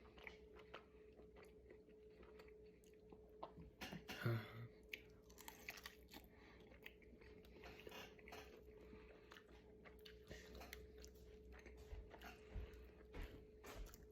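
A person chewing a meat meal with the mouth close to the microphone: soft, irregular wet clicks and smacks, with one louder bite about four seconds in. A faint steady hum sits underneath.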